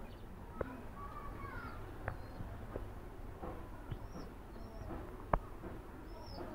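Faint, short, high bird chirps repeating every second or so, with a few sharp clicks; the loudest click comes about five seconds in.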